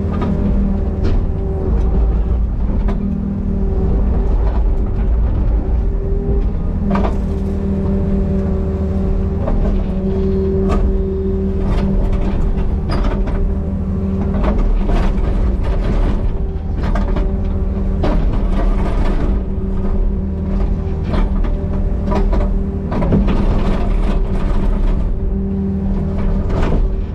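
Diesel excavator engine running steadily under work, with scattered knocks and clanks throughout.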